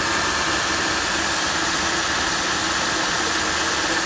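2009 Chevy Impala's 3.5-litre V6 idling steadily, with a constant hiss and a faint steady whine from the belt-driven accessories.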